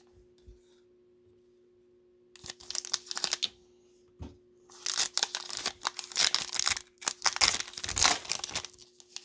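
Cellophane wrapper of a 2020 Panini Mosaic football cello pack being torn open and crinkled: a short spell of crackling, then a longer, louder one.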